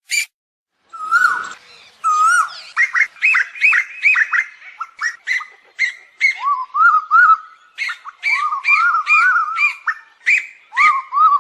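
Asian koel calling: after a short run of clipped notes ends and a pause of about a second, fast series of short hooked, rising whistled notes follow one after another, several overlapping, continuing to the end.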